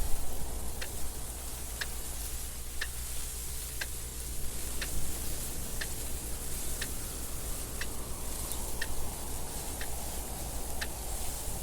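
Clock ticking steadily, about one tick a second, over a constant wind noise with a low rumble and a soft hiss.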